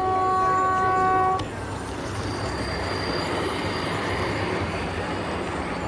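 A train horn on the model railway layout sounds one steady note that cuts off about a second and a half in, followed by a steady, noisy rumble.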